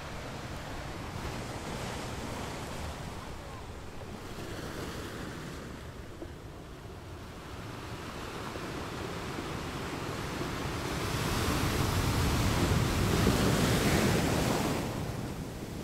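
Sea waves washing, with wind buffeting the microphone; the noise swells louder for a few seconds late on, then eases.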